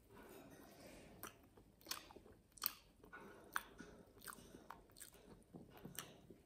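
Quiet close-up chewing of a mouthful of lemon cheesecake, with sharp wet mouth clicks and lip smacks about once a second.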